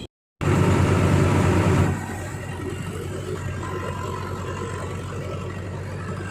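Digitrac PP51i tractor's diesel engine running steadily. After a short gap near the start it comes in loud for about a second and a half, then drops to a lower, even run.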